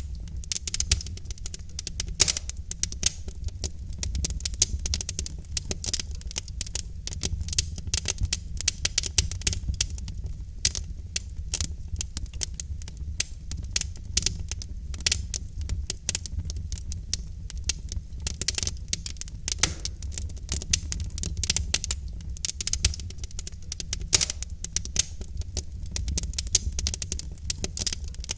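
Logs burning in a fireplace, crackling with frequent sharp pops over a steady low rumble.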